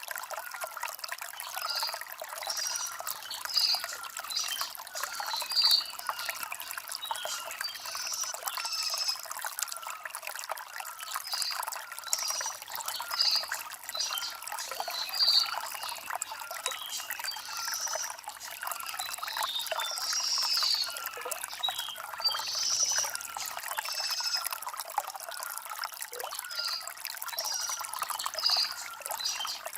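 Shallow stream trickling and gurgling over river stones, with little low rumble. Short, bright high notes recur about once a second through it.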